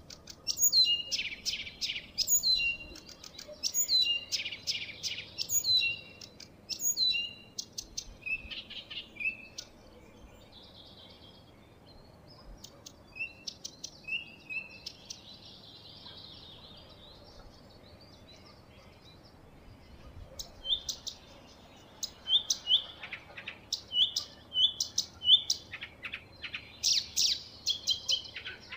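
Songbird singing: bursts of short, high chirping notes, with a quieter stretch in the middle before the song picks up again.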